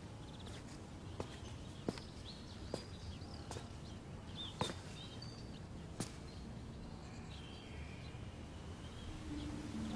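Quiet outdoor ambience with small birds chirping in short trills, and a few sharp clicks scattered through it.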